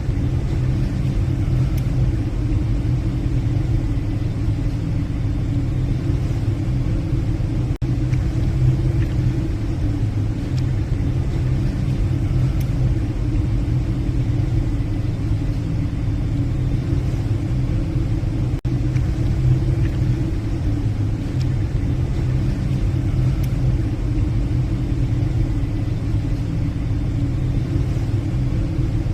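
Steady low rumble of a passenger ship's engines under way, heard from the bridge, with two momentary drop-outs.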